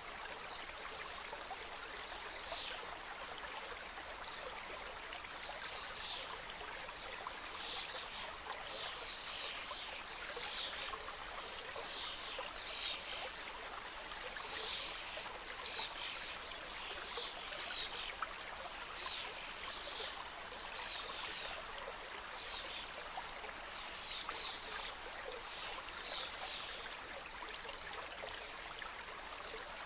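Forest mountain stream flowing and cascading, a steady rushing with many short, high sounds scattered over it.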